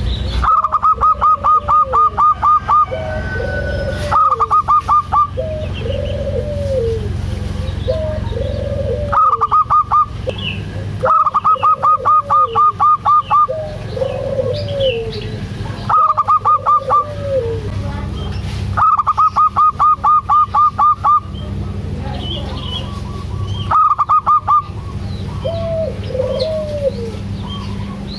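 Zebra doves (perkutut) calling in turn. Trains of rapid, evenly spaced high notes lasting about two seconds alternate with single arched coos, over a steady low hum.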